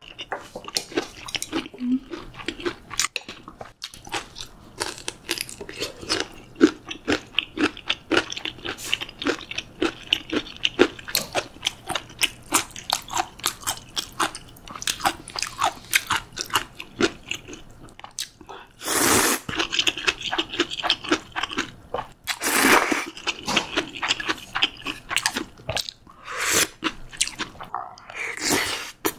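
Close-miked crunchy chewing, a rapid run of crisp crunches. Two loud slurps of cold buckwheat soba noodles come about 19 and 22 seconds in, each about a second long, and the chewing carries on after them.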